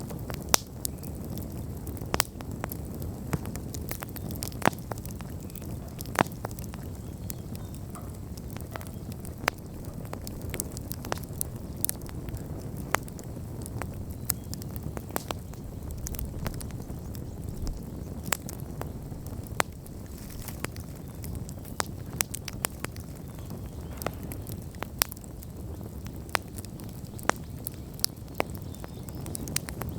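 Wood bonfire burning: a steady low rumble of flames with irregular sharp crackles and pops throughout, a few louder snaps scattered among them.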